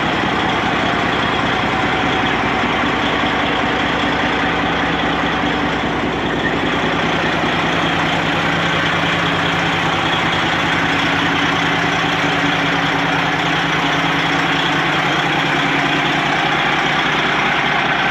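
Detroit diesel engine of a Freightliner semi truck idling steadily, warming up.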